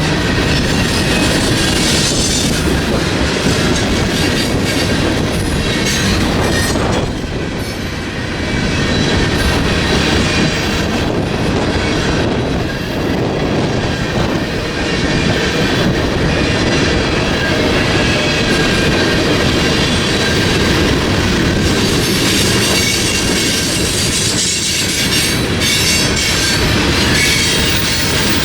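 Freight train rolling past, its cars' steel wheels clattering steadily over the rail joints.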